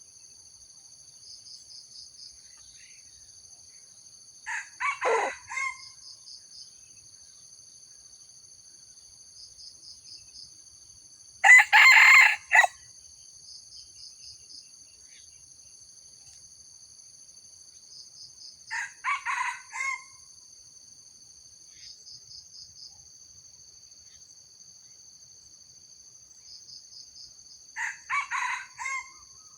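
Red junglefowl crowing four times, short clipped crows about seven seconds apart, the second one loudest. Insects chirr steadily throughout with a high, regularly pulsing trill.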